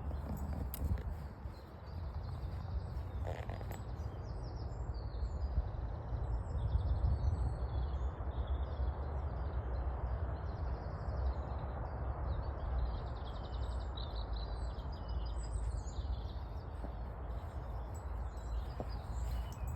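Small birds chirping and singing over a steady low rumble.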